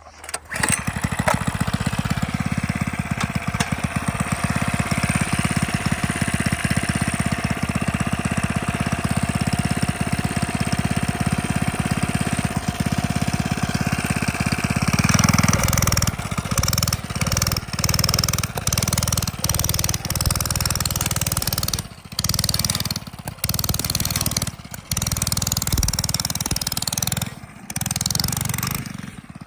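Mini bike's small engine, made louder by modification, running steadily, then revved up and let off again and again in the second half, with several short drops in loudness as the throttle is closed.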